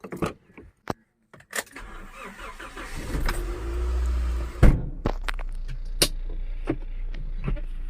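A few light clicks and knocks, then a car engine running as a steady low rumble from about two seconds in. One loud sharp knock comes about halfway through.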